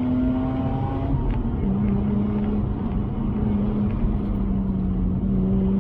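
Mazda RX-8's twin-rotor Renesis rotary engine heard from inside the cabin under acceleration. Its pitch rises for about a second, drops about a second and a half in, then holds steady.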